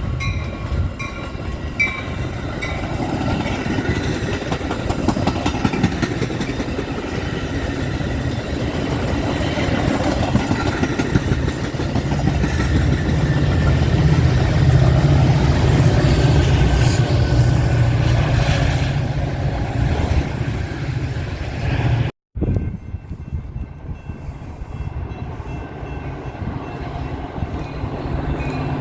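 Train passing: a diesel locomotive's engine drone builds to its loudest over the middle, with wheels clacking over the rails. The sound cuts out for an instant a few seconds before the end, then the train noise carries on.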